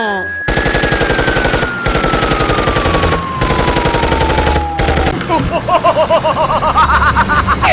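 Cartoon sound effects: a fast, even rattle like machine-gun fire under a long whistle that slides slowly down in pitch, followed about five seconds in by warbling tones that waver up and down.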